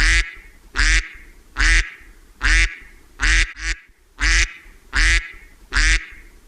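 Duck quacking in a steady series of loud quacks, about one a second, with a quick double quack midway.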